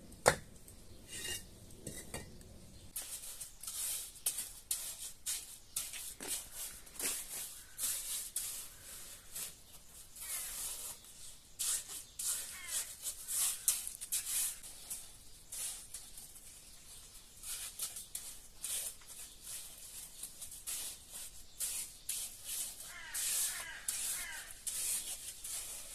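Irregular scraping, rubbing and light clicks from hand work on building materials, with a few short bird chirps near the end.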